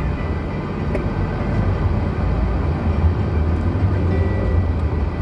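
Lada Granta car driving over a rutted forest track: a steady, loud low rumble of engine and tyres with no breaks.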